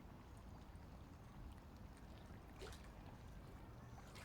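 Near silence: a faint low rumble of light wind on the microphone, with one faint tick about two and a half seconds in.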